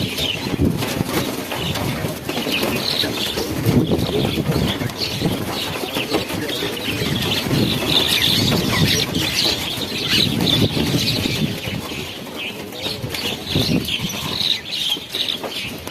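Birds flapping their wings, with many short high chirping calls mixed in, going on steadily.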